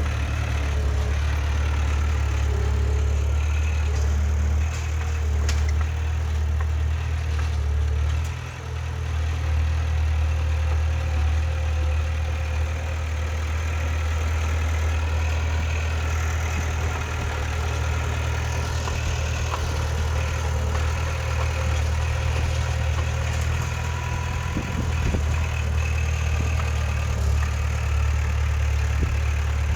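Heavy diesel engine of earthmoving machinery running steadily with a deep low drone, dipping briefly about eight seconds in.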